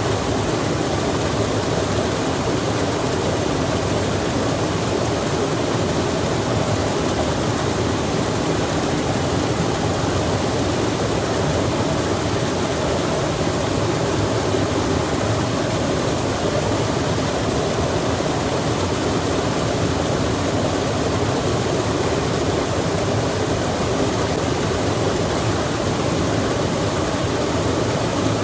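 Steady, unbroken rush of flowing water, such as a mountain stream or waterfall, with no other sound standing out.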